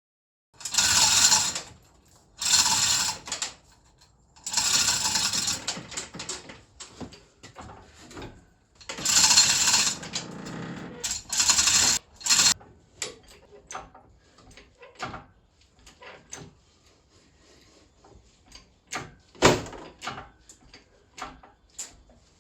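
Power tool running in five short bursts of a second or two each, followed by scattered clicks and knocks of metal.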